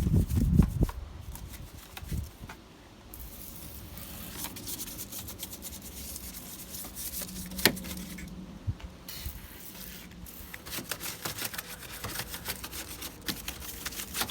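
Detailing brush scrubbing engine-bay surfaces, agitating degreaser and all-purpose cleaner into grease and dirt with quick, irregular strokes. A few thumps come in the first second, and there is a single sharp click about eight seconds in.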